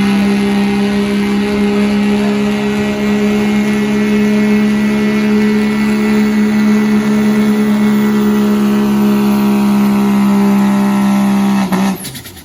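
Diesel pickup truck with a 2.6-inch smoothbore turbocharger at full throttle on a sled pull, its engine held at a steady high pitch. Near the end the throttle is cut, and the engine sound falls quickly in pitch and dies away.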